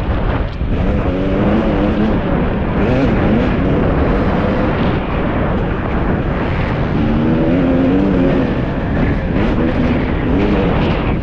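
Husqvarna TC 250 motocross bike's engine revving up and down through the throttle while riding a dirt track, with heavy wind rumble on the microphone.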